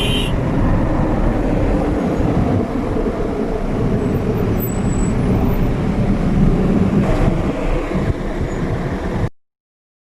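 Car road and engine noise heard inside the cabin: a steady low rumble that cuts off suddenly near the end.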